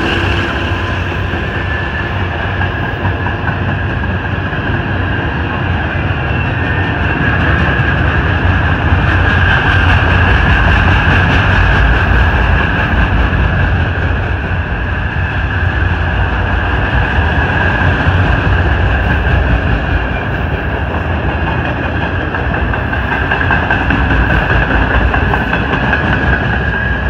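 Loaded freight train cars, a covered hopper and then intermodal container cars, rolling past: a steady rumble and clatter of steel wheels on the rails, with a high steady ringing tone over it.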